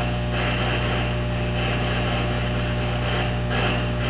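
Steady low electrical hum under a hissing static that cuts in and out every second or so.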